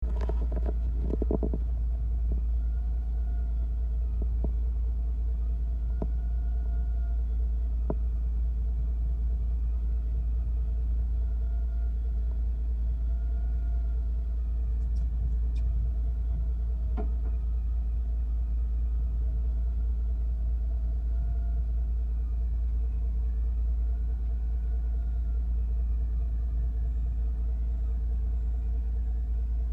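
A fishing boat's engine running steadily, a constant low rumble with a faint droning hum above it, and a few light clicks and knocks.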